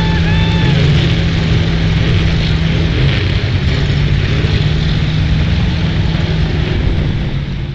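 Modified 4x4 mud truck engine running loud and steady, its pitch dropping slightly about three seconds in.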